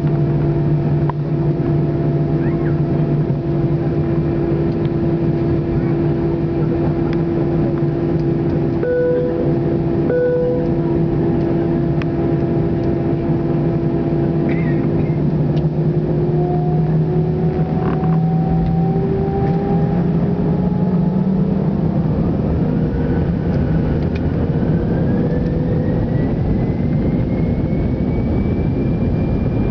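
Airbus A319 jet engines running at a steady low thrust, then spooling up from about halfway through with a whine that rises steadily in pitch as takeoff power is applied. Two short chimes sound about a third of the way in.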